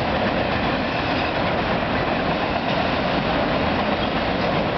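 CN freight train of auto-rack cars passing fast over a rail overpass: a steady, unbroken rolling noise of wheels on rail.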